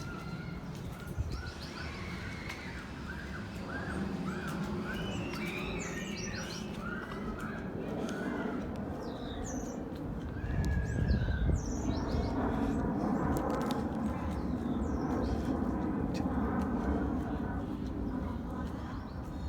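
Small birds chirping in quick repeated calls over a steady low rumble of background noise, which grows louder about eleven seconds in.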